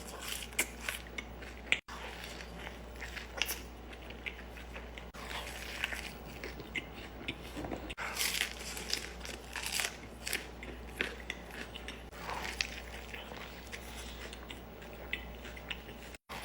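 Close-miked eating sounds: crunchy bites and chewing, a scatter of short crackling crunches with no talking.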